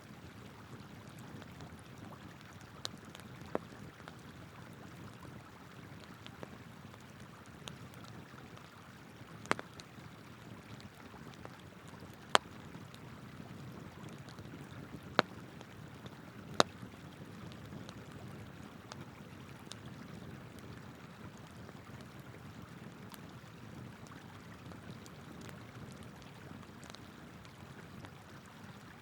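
Steady rush of flowing river water, with a burning wood campfire crackling over it: a few sharp pops scattered through, the loudest three close together about midway.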